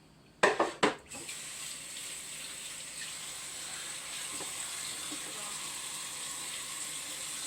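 A few sharp knocks about half a second in, then a kitchen tap running steadily.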